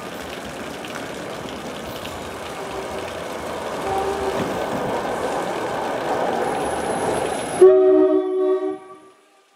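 NJ Transit commuter train pulling into the station, its wheel and rail noise growing louder as it nears. Just under 8 s in the train noise cuts off abruptly and a few held musical notes take over.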